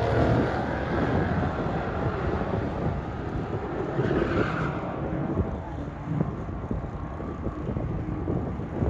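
Drag-racing cars' engines running hard down the strip, loudest at the start and slowly fading.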